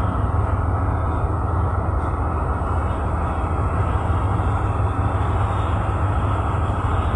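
Tugboat's diesel engine running steadily, a loud, deep, unbroken drone heard from on board.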